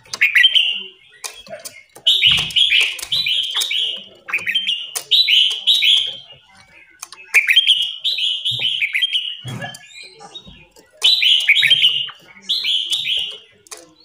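Songbirds calling: phrases of quick, falling chirps, repeated every second or two with short gaps between them, and a few soft low thumps.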